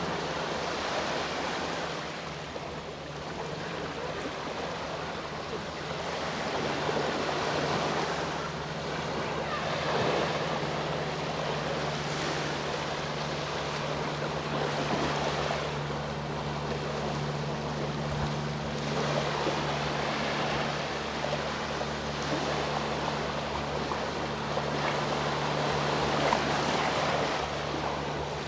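Sea waves washing onto the shore, swelling and falling every few seconds, over a steady low hum.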